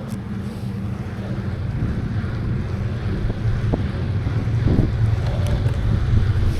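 Wind buffeting the microphone of a camera riding on a moving bicycle, a steady low rumble that rises and falls.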